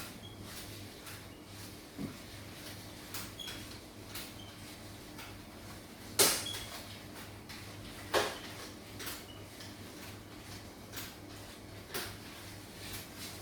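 Household objects being handled during cleaning: a string of light clicks and knocks, with two sharper, louder knocks about six and eight seconds in, like things being set down or a door or drawer being shut.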